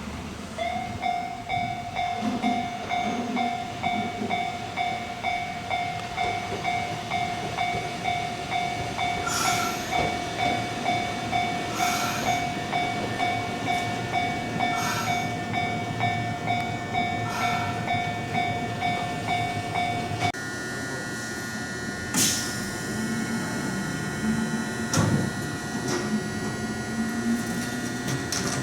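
Japanese railway level-crossing alarm ringing, a repeated high ding about twice a second, while a train or tram runs through. The alarm cuts off about two-thirds of the way in, leaving the train's running noise with a steady electric whine and a sharp clang.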